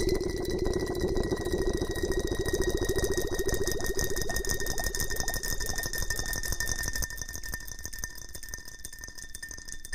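Close-miked ASMR rustling: a fast, dense crackle that eases off about seven seconds in, over a faint steady high whine.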